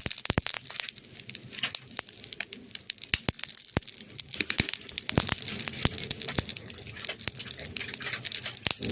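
Wood fire crackling: irregular sharp pops and snaps, some close together and some spread out, over a steady soft hiss of the burning logs.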